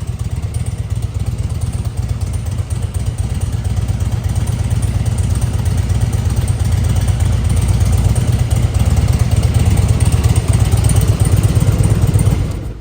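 Harley-Davidson Heritage Classic's fuel-injected Twin Cam 88B V-twin running through a Stage 1 exhaust. It grows somewhat louder partway through, then is shut off near the end.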